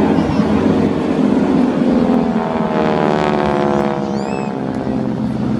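Engine drone of an aircraft at an air show. About midway an engine passes, its pitch falling steadily as it goes by.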